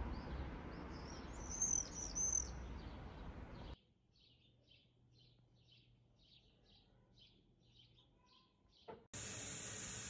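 Small birds chirping: a quick cluster of high notes about two seconds in, over steady outdoor background noise. The noise cuts off suddenly after a few seconds, leaving faint, evenly repeated high chirps about three a second. A click and a steady hiss start near the end.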